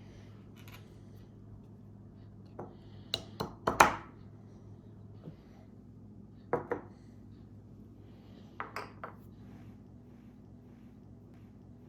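Kitchenware clinking and knocking in short groups of sharp hits, the loudest a little under 4 s in, with more a few seconds later, over a low steady hum.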